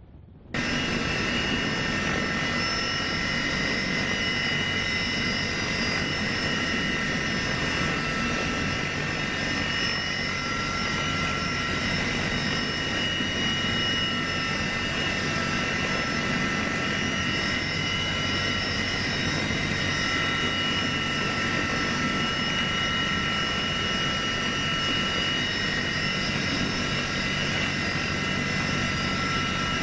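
Aircraft engine running steadily, an even rush of noise with a high, held turbine whine. It cuts in abruptly about half a second in.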